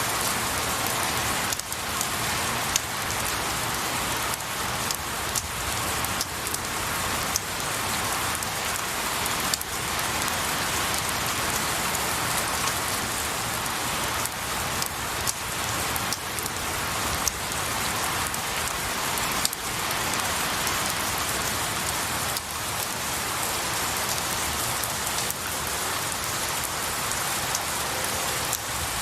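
Steady rain falling on pine needles and trees, a constant hiss with scattered louder drop ticks.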